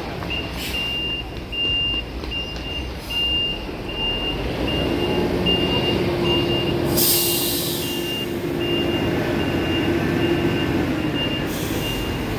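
A heavy vehicle's reversing alarm beeps steadily about twice a second over its running engine. There is a sharp hiss of air, like an air-brake release, about seven seconds in and again near the end.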